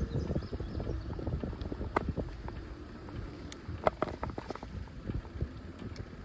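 Bicycle rolling along a path with a low tyre rumble, and something knocking irregularly against the side of the bike, with two sharper knocks about two and four seconds in.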